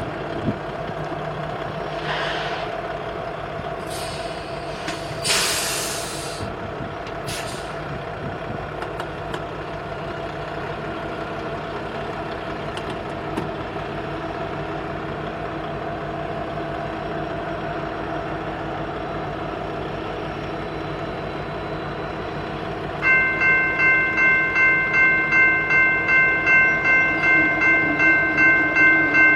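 Idling BNSF diesel locomotives with a steady engine drone and several short hisses of released air in the first eight seconds. About 23 seconds in, a ringing bell, likely a grade-crossing bell, starts striking about two and a half times a second.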